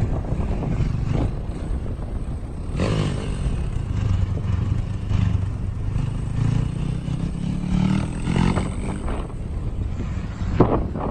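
Yamaha YZ250 two-stroke dirt bike engine running, its revs rising and falling.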